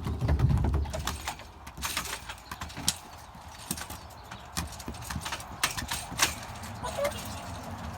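Toy remote-control car on a trampoline mat: a low thump about half a second in, then irregular sharp clacks and knocks as it bounces and lands.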